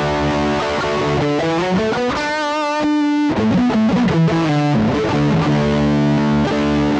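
Overdriven electric guitar played through a Behringer GDI21 amp-simulator pedal and a Cuvave ODrive Blues overdrive: sustained notes with a single note bent and held with vibrato a couple of seconds in, then lower held notes.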